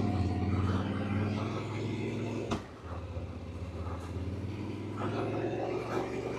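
Yamaha Ténéré adventure motorcycle engine running steadily, with a sharp click about two and a half seconds in.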